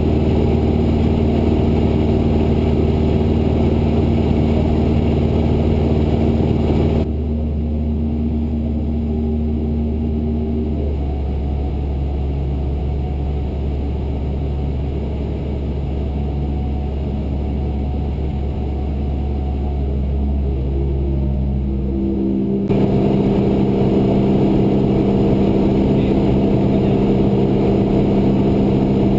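Cessna 172's piston engine and propeller droning steadily in the cabin. About a third of the way in the drone turns quieter and duller for roughly fifteen seconds, then comes back to its full, brighter sound.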